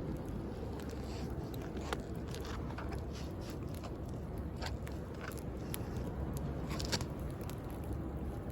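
Wood bonfire crackling, with irregular sharp pops scattered through, over the steady wash of sea waves.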